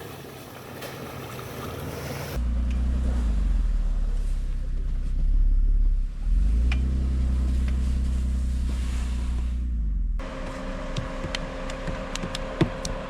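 SUV engine running under load through snow, a loud low drone that starts abruptly about two seconds in. It dips in pitch around the middle, climbs back, and cuts off abruptly near the end, with wind noise before it.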